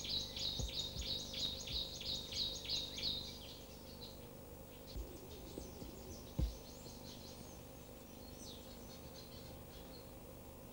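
A bird calling in a rapid, even series of high chirps, about three a second, that stops about three and a half seconds in, followed by fainter scattered chirps. A short thump about six seconds in is the loudest moment.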